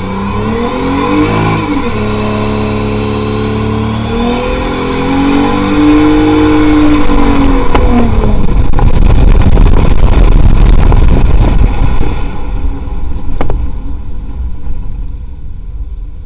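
Car engine revving, its pitch climbing and dropping several times, then a louder, rough stretch about eight seconds in that fades away near the end.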